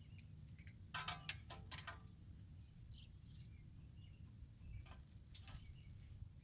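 A few light metallic clinks and clicks of hand tools being handled, the loudest cluster about one to two seconds in and two more about five seconds in, over a steady low hum, with faint bird chirps in the background.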